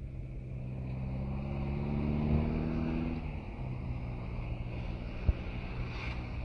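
Mitsubishi Canter dump truck's diesel engine revving up, its pitch rising and the sound growing louder for about three seconds, then dropping back to a lower steady speed. A single short click about five seconds in.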